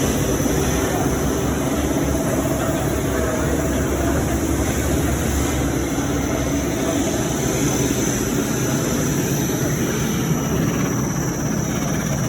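Wire brush drawing sanding machine running, a steady mechanical whir and drone with a faint hum in it.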